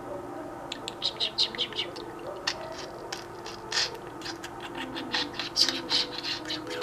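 Pet bird chattering in quick runs of short, sharp chirps, about five or six a second, in several bursts.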